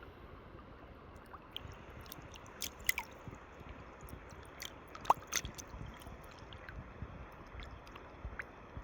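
Wet squelching and scattered clicks of someone walking in waders at the river's edge, with one sharper click about five seconds in, over the steady rush of the river.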